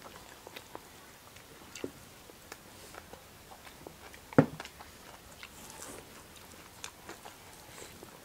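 People chewing a meal of rice and vegetables eaten by hand, with scattered small clicks and one sharp knock about four and a half seconds in.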